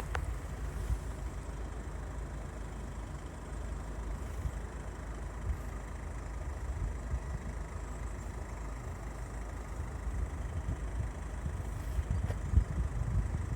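Steady low rumble of motor vehicle engines idling, with a few brief louder swells near the end.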